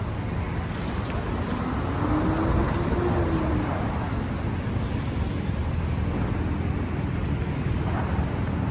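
City street traffic with a steady low rumble and wind buffeting the microphone. About two seconds in, a passing vehicle's engine tone rises and falls.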